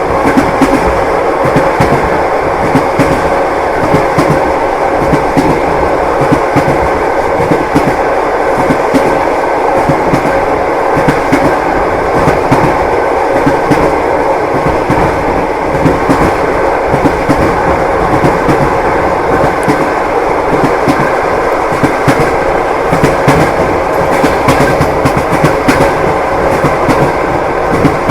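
Train wheels clacking over rail joints, with the passenger car's continuous rumble and a steady hum underneath; the clacks come again and again without a break.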